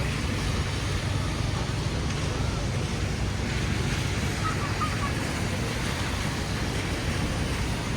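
Steady low rumble of city street traffic and wind noise, with a few faint high chirps a little past the middle.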